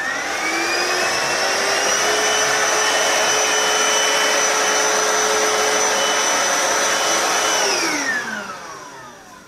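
Vax Cordless Slim Vac cordless stick vacuum switched on, its motor spinning up with a rising whine, then running steadily with a loud airflow hiss. Near the end it is switched off and winds down with a falling whine.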